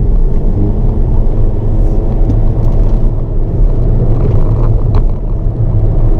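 Hyundai Avante N (Elantra N) 2.0-litre turbocharged four-cylinder engine running steadily under throttle in a high gear, heard inside the cabin with road rumble. There is a brief click about five seconds in.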